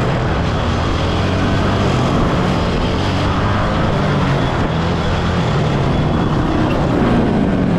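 Dirt bike engine running at a steady speed while being ridden, under an even rushing haze of wind noise.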